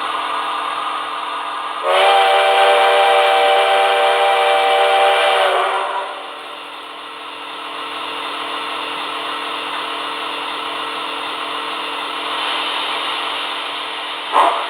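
Sound system of a Tenshodo Cantum HO-scale C62 steam locomotive model: a steady steam hiss, with a multi-note steam whistle sounded about two seconds in and held for about four seconds. A short knock comes near the end.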